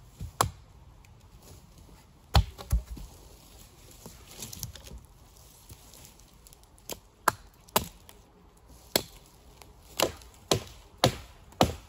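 Wood being chopped: about a dozen sharp, separate chopping strikes into wood at irregular intervals, a few coming in quick pairs, with pauses of a second or more between them.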